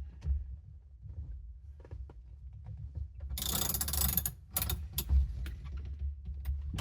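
Ratchet wrench clicking as it tightens the centre screw of a steering wheel puller. There is a denser run of ratcheting about three and a half seconds in, then separate clicks.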